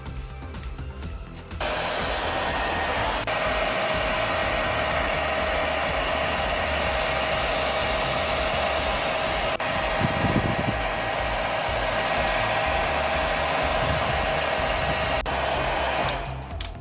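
Steady rush of blown air with a constant hum, like a compressed-air gun or heat gun. It starts about a second and a half in and cuts off shortly before the end.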